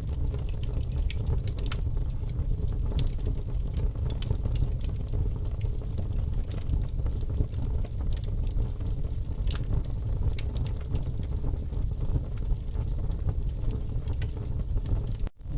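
Campfire burning, with a steady low rumble under many scattered sharp crackles and pops. The sound drops out for an instant near the end.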